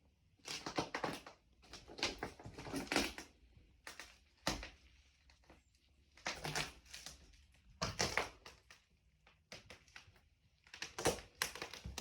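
Slow, irregular footsteps crunching over debris on a floor, roughly one step every second.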